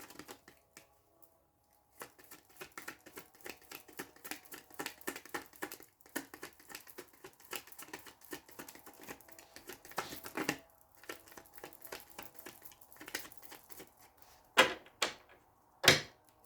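Tarot cards being shuffled by hand: a long run of rapid soft flicks, followed near the end by two louder slaps of cards.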